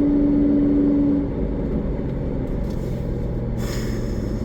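Nissan 350Z's V6 engine and road noise while driving. The engine's steady note drops about a second in, and a lower steady note takes over.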